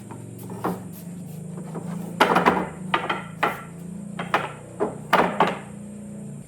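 A hammer knocking on wood, about nine sharp, irregularly spaced blows from about two seconds in, over a steady low hum.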